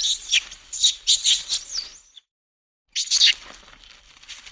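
Monkeys calling, shrill high-pitched cries in quick bursts that stop for under a second about halfway through, then start again.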